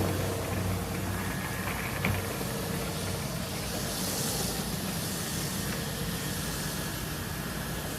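Battery pressure washer spraying: a steady hiss of the water or foam jet, with a faint motor whine that fades out about three-quarters of the way through.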